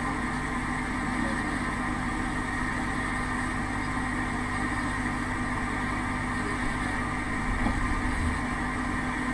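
Steady mechanical hum with an even background hiss, holding a few fixed tones and not changing.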